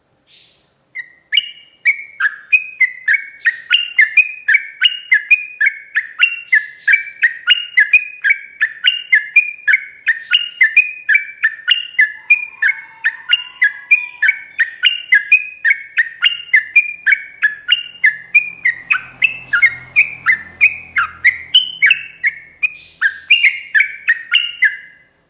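Yellow-vented bulbul (trucukan) singing a long, unbroken run of quick bubbling notes, about three a second, that hop up and down in pitch. This is the long, continuous 'ropel' song used as a master recording to set other bulbuls singing.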